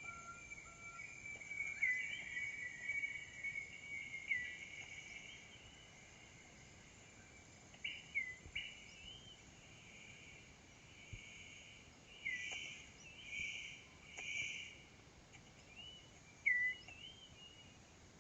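Forest ambience: steady insect chirring with short, hooked bird whistles every few seconds and a few louder pulses of chirring past the middle.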